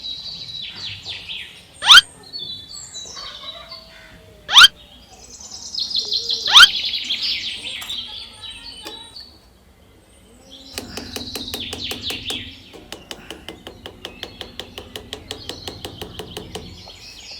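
Birds chirping. Four loud, quick rising sweeps come in the first seven seconds, and from about eleven seconds a rapid ticking rhythm of about five ticks a second runs with a low hum under it.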